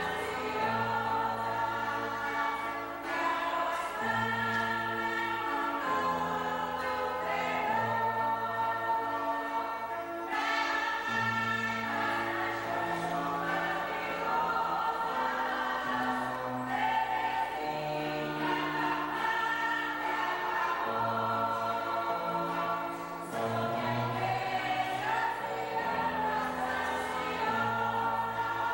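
Choir singing a hymn in several parts: held chords over a low line that steps to a new note about every second or two.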